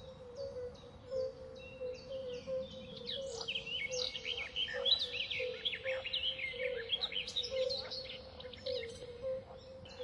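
Wild birdsong: several birds chirping with short repeated notes, growing into busier twittering from about three seconds in until near the end. Underneath is a steady low note with a soft pulse about twice a second.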